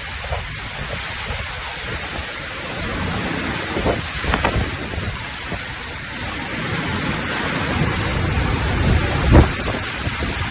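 Steady rushing of a flood-swollen river surging through a bridge, mixed with wind buffeting the microphone, with a few short thumps, the strongest about nine seconds in.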